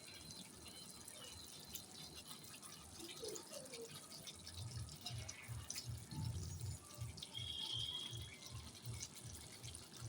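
Thick chicken roast masala gravy simmering in a pan as its liquid cooks down: faint crackling sizzle with low, irregular bubbling that grows stronger about halfway through.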